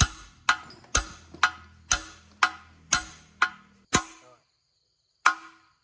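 Hammer blows in a steady rhythm, about two a second, nine in a row, then a single further blow after a short pause.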